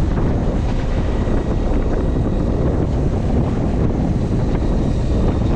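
Steady wind buffeting the microphone on a boat at sea, with water and waves underneath.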